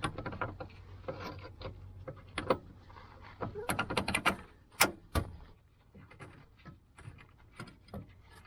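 Metal clinks and knocks as a bolt and the front lower control arm are handled and worked into place, with the sharpest knocks a little before and after five seconds in, then a few lighter taps.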